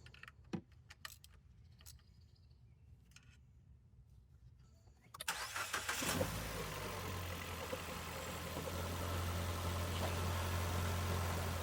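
2017 Ford Fiesta SE engine starting: a few light clicks, then about five seconds in the starter cranks briefly and the engine catches and settles into a steady idle. This is the first start on freshly fitted fuel injectors and spark plugs.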